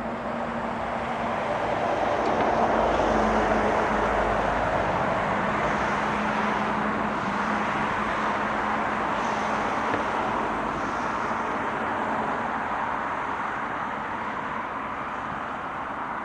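A passing train rumbling steadily. It swells to its loudest about three seconds in, then slowly fades.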